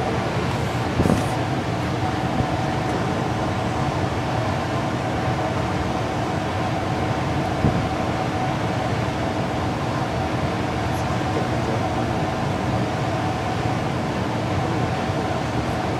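Steady mechanical hum with a constant whine from a stopped electric freight train idling at a platform, with two light knocks, about a second in and near the middle.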